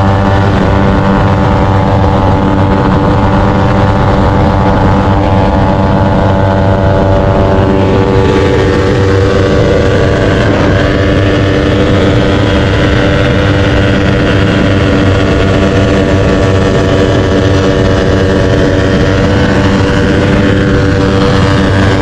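Small motorcycle engine running loudly at a fairly steady pitch, held at constant revs.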